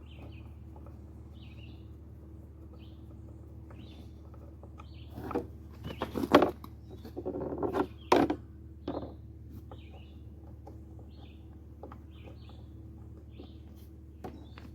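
Metal clicks, clinks and a few sharp knocks as a screwdriver and small screws are worked on a small engine's fuel pump and cover, bunched from about five to nine seconds in, over a low steady hum.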